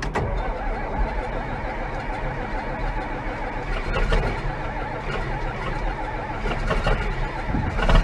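John Deere tractor engine running steadily after a cold start, a low rumble with faint ticking.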